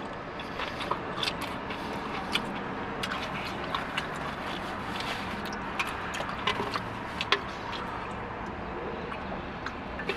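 Close-up chewing and mouth sounds from eating a burrito bowl, with scattered small clicks and scrapes, over a steady low hum inside a car.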